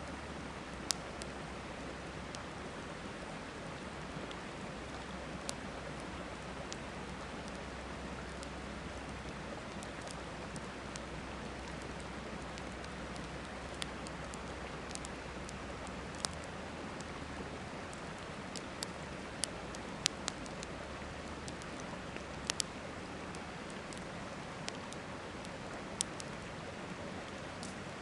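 Campfire crackling, with sharp pops at irregular intervals over the steady rush of a flowing river.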